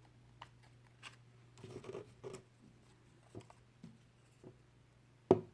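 Paper rustling and small taps as cut paper pieces are handled and pressed together with glue, with one sharp click near the end.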